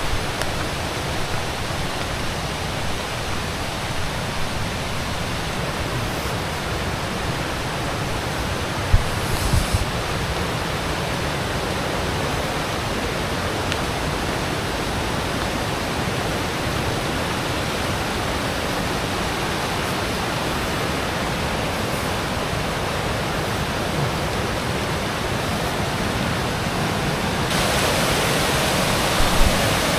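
Waterfall pouring down: a steady, very loud rush of falling water that grows louder near the end, with a brief knock about nine seconds in.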